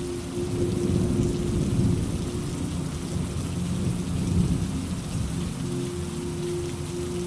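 Steady rainfall with a long rolling rumble of thunder that swells about half a second in, peaks twice and fades out after about five seconds.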